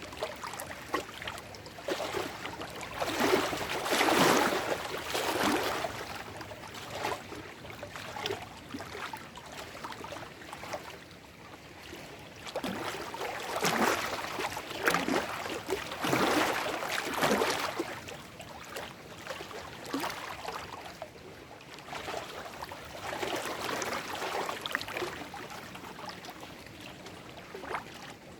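Small lake waves lapping and splashing over shore rocks, swelling and falling every several seconds with bursts of little splashes.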